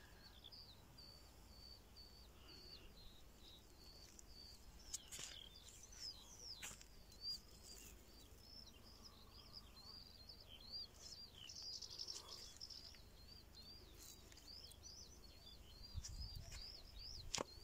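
Faint, near-silent outdoor background with a small bird singing a continuous run of short high chirps, about three a second, and a few soft clicks.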